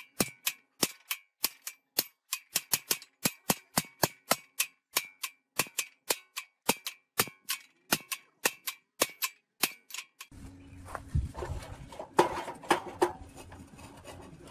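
Hammer striking steel over and over, about two to three blows a second, each with a bright ringing note. The hammering stops about ten seconds in, giving way to a steady low hum and a few scattered knocks.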